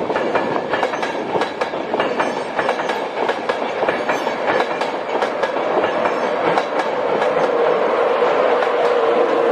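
Train moving through a station, wheels clicking repeatedly over rail joints and points, with a steady hum that grows louder over the last few seconds.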